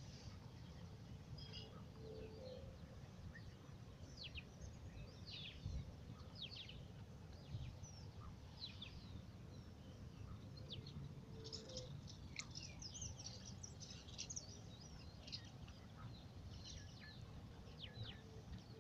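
Faint chirping of small birds: many short, high, quick calls, busiest past the middle, over a low steady background rumble.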